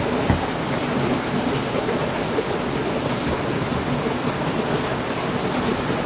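Heavy rain falling steadily, with one brief sharp thump just after the start.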